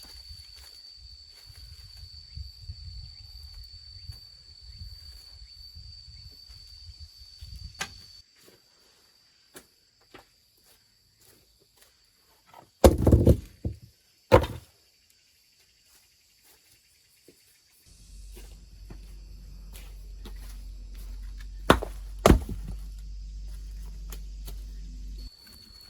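Heavy knocks in two pairs: the first pair comes out of near silence, the second over a low steady rumble. Before and after them is a steady high-pitched buzz over a low rumble.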